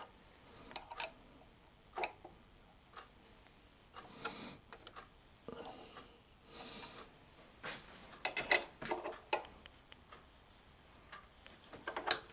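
Faint, scattered clicks and light metal taps, with a busier run of clinks in the second half, as metal parts and tools are handled while the collar is clamped onto the milling fixture with a bolt and washer.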